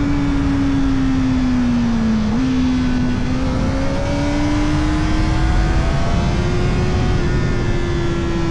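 Kawasaki Ninja ZX-4RR's inline-four engine, breathing through an Arrow Indy Race Evo titanium exhaust with the dB killer in, heard from on the bike over heavy wind rush. The engine note falls off, steps up quickly about two seconds in as the rider changes down a gear, then climbs steadily under throttle and eases back near the end.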